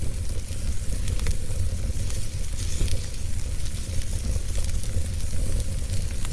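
Fireplace fire crackling, with scattered sharp pops and clicks over a steady hiss and a low rumble.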